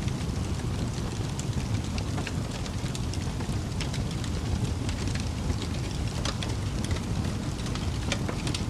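Wood fire burning in a fireplace: a steady low rumble of flames with scattered sharp crackles and pops, several a second.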